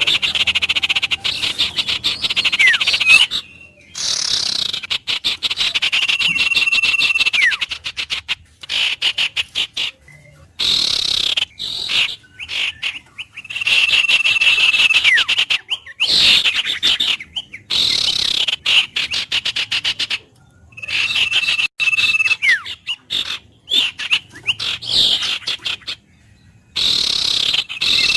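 Bird song: a repeated phrase of a rapid buzzy trill followed by a held high whistle that drops off in a quick downward slur, sung over and over with short pauses between.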